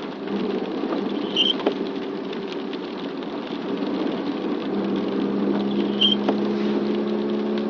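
Motor vehicle running at a steady engine note with road noise. Two short high chirps come about a second and a half in and again about six seconds in.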